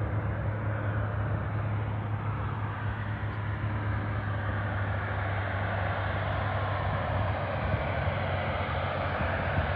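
A floatplane's piston engine and propeller running steadily, a constant low drone with a wash of engine and prop noise.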